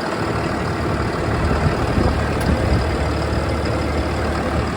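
6.7-litre Cummins ISB diesel engine of a Ford F-750 truck idling with a steady low rumble, which the owner calls healthy.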